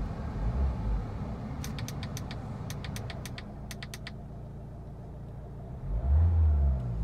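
Mercedes A-Class 1.5-litre four-cylinder Renault diesel idling with a steady low rumble just after starting. A quick run of light clicks comes about two seconds in, and the engine note swells louder near the end.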